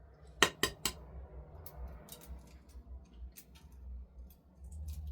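Dishes and cutlery being handled: three sharp clinks in quick succession about half a second in, then lighter scattered clinks.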